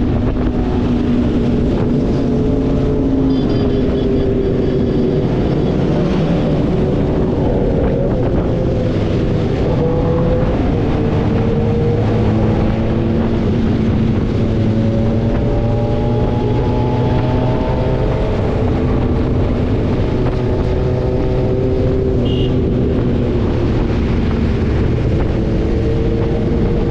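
Motorcycle engine running while riding, its pitch slowly rising and falling as the speed changes, under heavy wind buffeting on the microphone.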